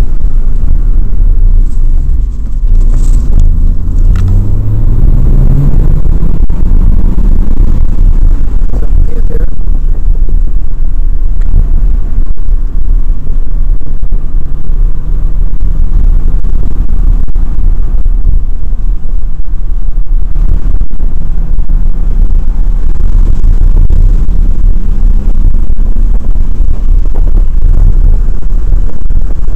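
Porsche 997 Turbo's twin-turbocharged flat-six, heard from inside the cabin while lapping a track, loud, with a heavy low rumble. About two seconds in the engine note dips briefly, then climbs steadily as the car accelerates, before settling into a steady note.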